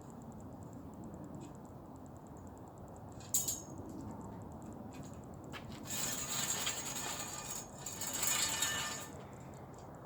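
Small metal hardware being handled: a sharp clink about three seconds in, then a few seconds of rattling and rustling.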